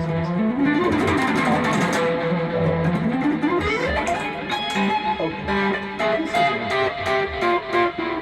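Solo guitar improvising a lead line with no backing music: single sustained notes, with slides that glide up in pitch about half a second in and again around three seconds in, then quicker picked notes toward the end.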